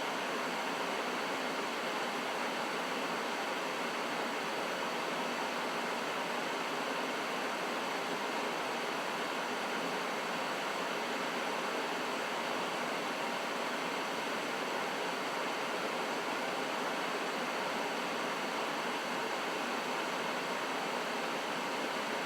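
Trane XB80 furnace running steadily: a constant rush of air from the blower and burners, with no change in level.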